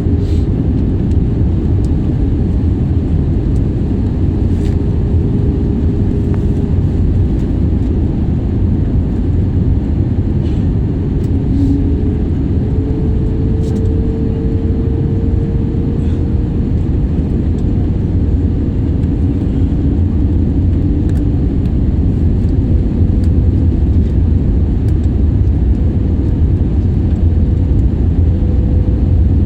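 Steady low rumble of a Wizz Air jet airliner's engines and airflow, with a faint tone that rises slightly in pitch about twelve seconds in.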